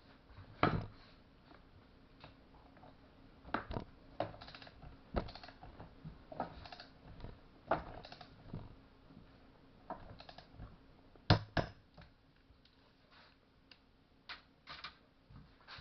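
Irregular clicks and knocks of hand tools and small metal parts being handled while a STIHL MS-180 chainsaw's flywheel is tightened, the loudest knock about two-thirds of the way through.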